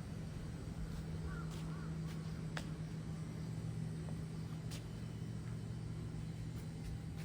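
A steady low mechanical hum, with a few faint clicks and a brief high chirp about a second in.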